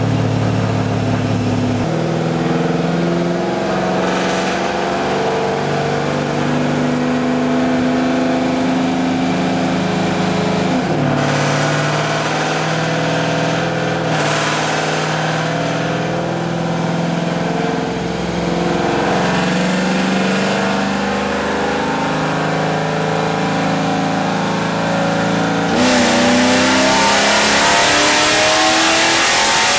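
2002 Camaro Z28's cammed 5.7-litre LS1 V8, with long-tube headers, running on a chassis dyno. Its pitch holds steady and steps to new levels several times, with a brief dip about eleven seconds in. About 26 seconds in it gets louder and its pitch begins to climb as a dyno pull starts.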